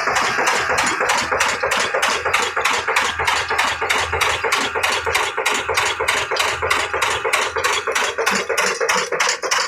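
Old desi 'Kala' diesel engine running steadily, with evenly spaced knocking beats at about four to five a second.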